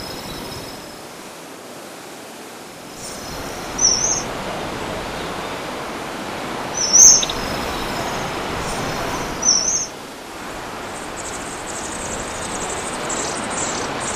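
A bird calling outdoors: three short, high, quick phrases about every three seconds over a steady hiss of background noise, followed near the end by fainter high twittering.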